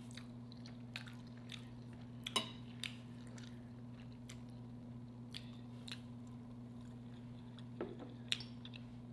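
A person chewing food quietly, with short scattered clicks and taps, over a steady low hum.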